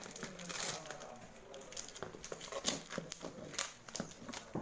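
Parcel packaging being handled and opened: irregular crinkling and rustling of plastic wrapping with scattered small clicks.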